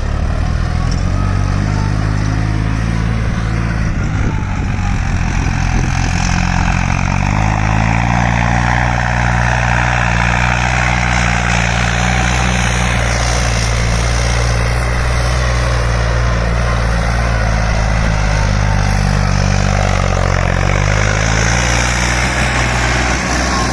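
Farmtrac 60 Powermaxx tractor's diesel engine, fitted with a turbo and with its fuel turned up, running steadily while driving in third gear. Its engine speed rises about seven seconds in, holds, and eases back a little near the end.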